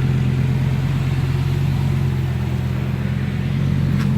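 2006 Lamborghini Gallardo's V10 engine idling steadily with its exhaust valve held open, the valve having been disconnected so the exhaust is louder, close to an aftermarket exhaust.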